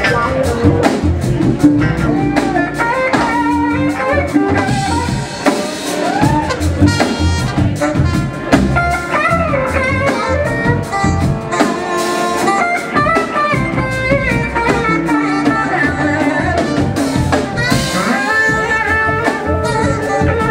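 Live blues-rock band playing an instrumental passage: a gliding electric guitar lead over a steady drum kit beat and full band.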